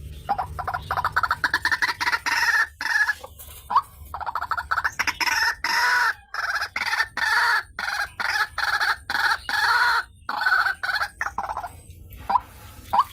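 White-breasted waterhen (ruak-ruak) calling: a long, rapid series of harsh, repeated croaking notes in several bouts. About a second before the end it drops back to single short rising notes.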